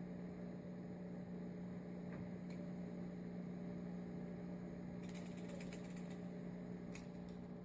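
A steady low electrical hum, with a run of faint light clicks and rattles from about five seconds in, as small carburettor parts are handled while hunting for a dropped part.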